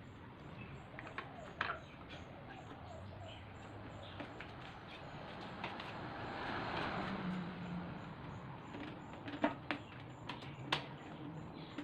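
Faint, sparse clicks and taps from handling the stand fan's plastic parts while it is being put back together, with a low cooing bird call in the background.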